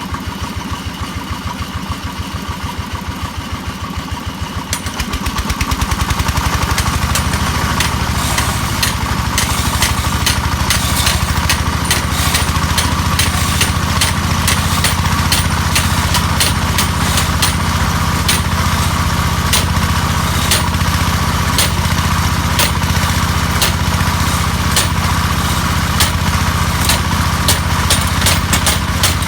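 Engine of a hammer drilling machine idling with an even low pulse, then speeding up about five seconds in and running steadily, with sharp knocks repeating over it from a couple of seconds later.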